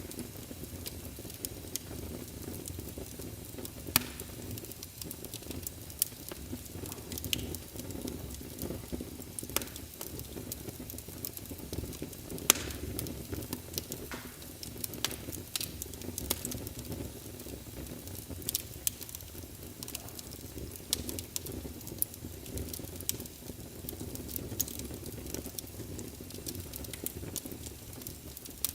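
Logs burning in a fireplace: a steady low rumble of flame with irregular sharp crackles and pops. The loudest pops come about four seconds and twelve seconds in.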